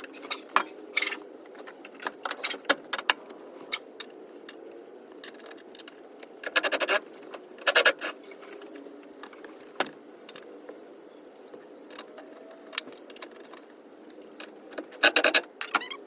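Irregular metallic clinks and rattles of hand tools and loose metal parts being handled, with three louder jangling clusters, the last near the end.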